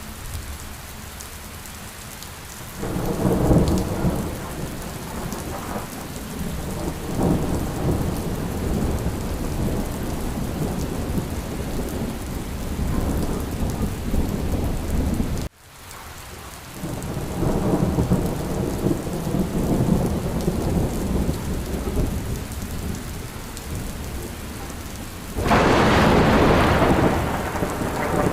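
Steady rain with thunder rolling in long low rumbles. The sound cuts out briefly about halfway through. A louder, sharper peal of thunder breaks near the end.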